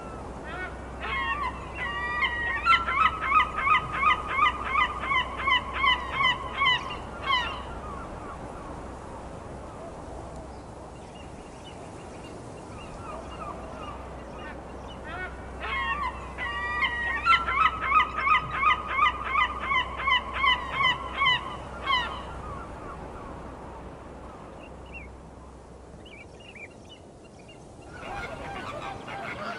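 Large waterfowl honking in fast runs of about three calls a second, each call dropping in pitch. There are two bouts about ten seconds apart. Near the end a denser, steadier honking chatter of a flamingo flock begins.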